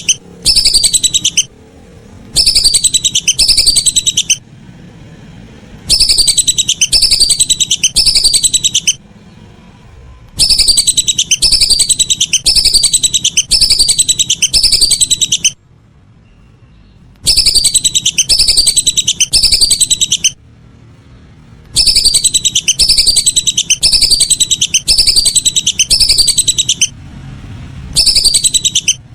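Whistling duck (belibis) calls played loud: quick, high, falling whistled notes in runs of two to six, with short pauses between runs, as used for a duck-calling lure.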